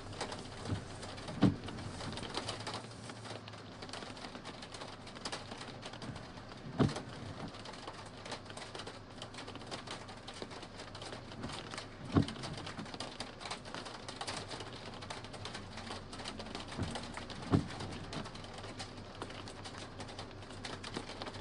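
Rain pattering in many fine rapid ticks, with four dull thumps at even intervals of about five seconds.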